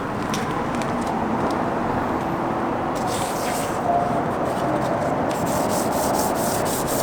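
Sandpaper wet-sanding a foggy plastic headlight lens by hand, starting with the coarse 400 grit: a steady rubbing that settles into quick regular strokes, about three a second, in the second half.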